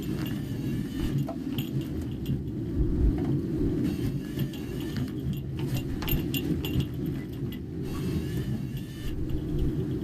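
A car driving, heard from inside the cabin: a steady low road rumble with scattered light rattles and clicks.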